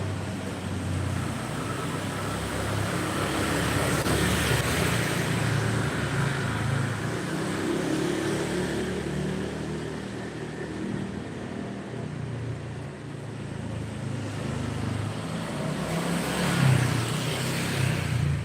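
Road traffic passing close by: vehicle engines running under tyre and road noise. The sound swells as vehicles go past, once about four to five seconds in and again, loudest, near the end.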